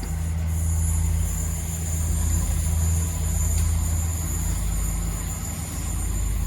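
Passenger multiple-unit train running at the platform: a steady low hum with a thin high whine above it, the whine dying away near the end.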